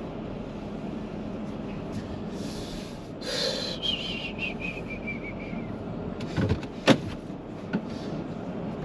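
Steady vehicle hum, with a brief hiss about three seconds in followed by a falling squeal, then a few sharp knocks near the end, one of them much louder than the rest.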